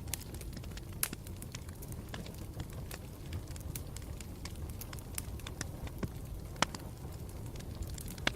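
Campfire burning with a steady low rumble and irregular sharp crackles and pops, several a second, a few of them louder.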